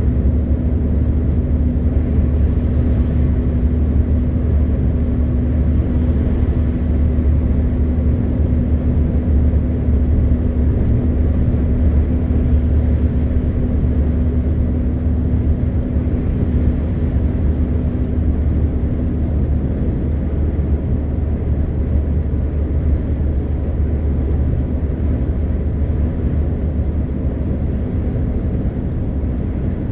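MAN TGX 520 truck's straight-six diesel engine running under way, with road noise, as a steady low drone. One of its tones drops out about two-thirds of the way through, and the drone eases slightly near the end.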